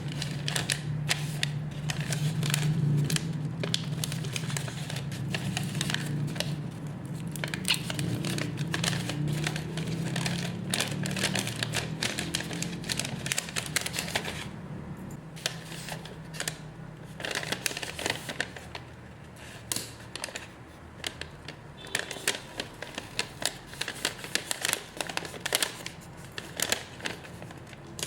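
Plastic packaging being handled: crinkling and rustling in quick, irregular bursts, with a low steady hum in the first half.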